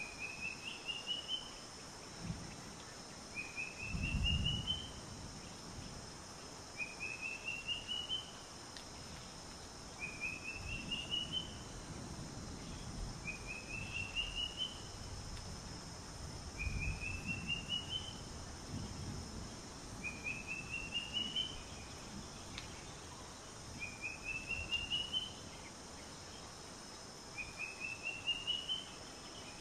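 A bird repeatedly calls a short run of quick notes that rise in pitch, nine phrases about three and a half seconds apart, over a steady high insect drone. A few low rumbles come through, the strongest about four seconds in.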